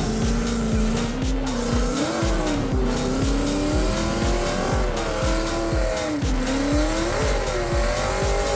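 Drift cars running at the track, the engine note rising and falling with tyre squeal, under backing music with a steady thumping beat of about two and a half beats a second.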